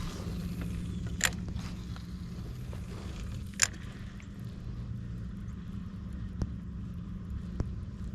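A steady low hum from the fishing boat, with a few sharp clicks of tackle or hull handling while a lure is cast and worked. The two loudest clicks come about a second and three and a half seconds in, and two fainter ones near the end.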